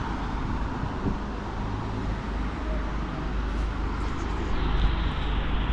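Steady wet-street ambience: traffic noise mixed with falling rain, under a low wind rumble on the microphone.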